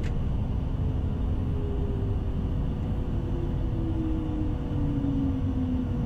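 Cockpit noise of a Challenger 650 business jet rolling out on the runway after landing: a steady low rumble of its turbofan engines and airflow, with a tone that falls slowly in pitch throughout.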